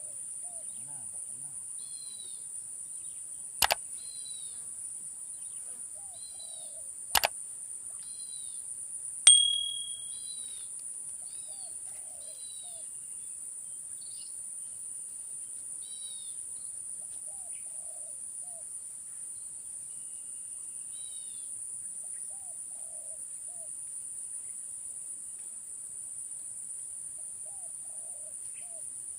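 Steady high-pitched drone of crickets with birds calling over it, short falling chirps repeated in little groups. Two sharp clicks cut through, and about nine seconds in a louder click is followed by a short ringing tone.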